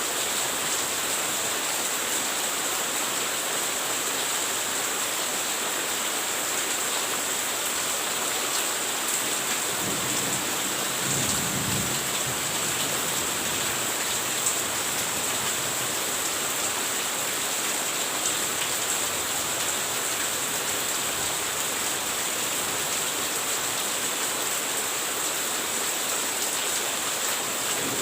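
Steady, heavy rainfall with a low rumble of thunder swelling briefly about ten seconds in, and one sharp tick about halfway.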